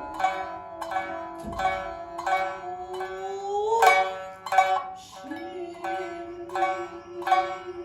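Two shamisen, the main instrument and the higher-tuned uwajōshi, playing a slow shinnai-bushi accompaniment of plucked notes, roughly two a second, each ringing and decaying. Under it is a long held note that slides upward twice.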